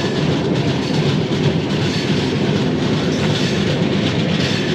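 Chhattisgarh Express passenger train running along the track, the steady noise of the coach's wheels on the rails heard from inside a general-class coach.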